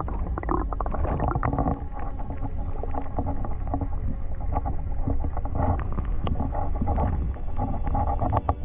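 Muffled underwater sound from a camera held beneath a pond's surface: a steady low water rumble with scattered clicks and knocks.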